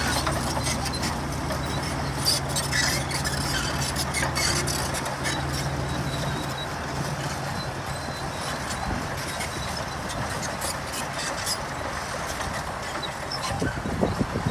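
Heavy earthmoving machinery's diesel engine running steadily, its hum easing off about halfway through, with scattered metallic clicks and rattles and a few louder knocks near the end.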